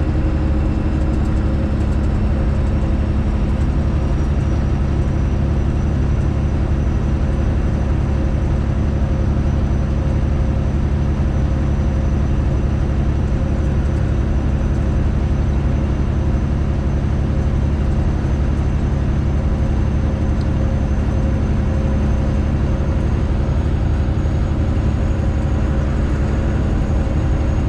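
Straight-piped Detroit Diesel engine of a Freightliner Classic XL semi truck, running steadily under way at an even engine speed, with a deep, loud exhaust drone.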